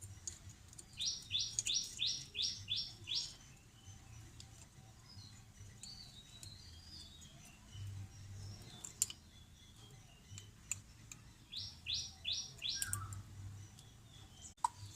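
A songbird calling: a quick run of about seven identical high notes, a scattering of softer chirps, then a shorter run of four notes, with a couple of sharp clicks in between.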